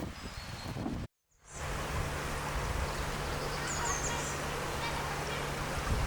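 Outdoor ambience of steady wind-like noise with small birds calling: a couple of short high chirps before a brief total dropout about a second in, then a steady low hum under the noise and a quick run of high chirps near the middle.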